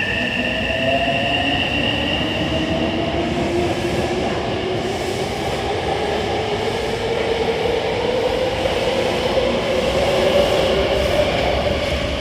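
Hankyu 9000 series electric train pulling away, its inverter and traction motors whining in several tones that rise steadily in pitch as it accelerates, over the rumble of wheels on rail.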